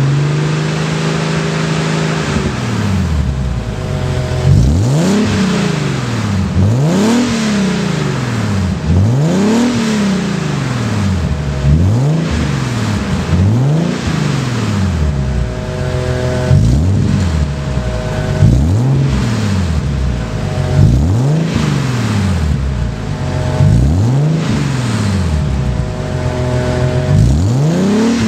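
Nissan 300ZX (Z32) V6 revved through a Labree Motorsports 2+0 cat-back exhaust with an H-pipe resonator and 2.5-inch stainless pipes, warmed up. The engine is held up briefly, then blipped about a dozen times, roughly every two seconds, dropping back to idle between blips. A leaf blower runs steadily in the background.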